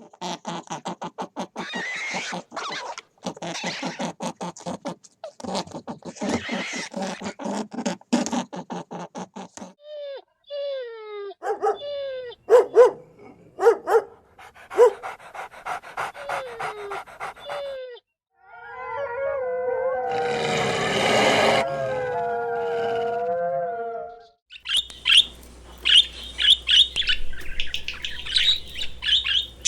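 A run of different animal calls: first rapid pulsed calls, then short falling whimper-like calls, then one long held howl-like call, with bird chirps starting near the end.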